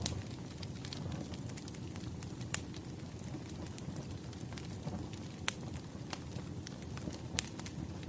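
Wood fire crackling: a steady low rumble and hiss with scattered sharp pops, a few louder ones about two and a half seconds in, around five and a half seconds, and near the end.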